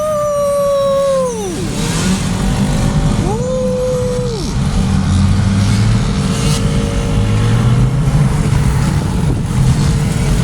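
Dirt bike engines running with a steady low rumble. Twice, a bike is revved up, held high for about a second, then let back down.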